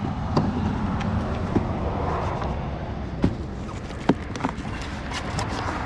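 Cardboard shipping box being opened and handled: scattered sharp taps and scrapes, about four clear ones spread over the few seconds, over a steady low rumble.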